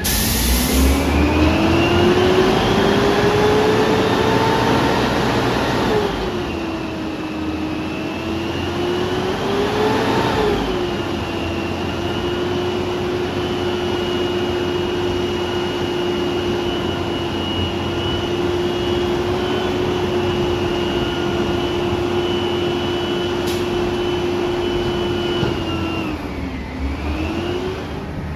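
Peterbilt 320 front-loader garbage truck's engine revving: its pitch climbs over the first few seconds, drops, climbs again, then holds at high, steady revs before dropping near the end.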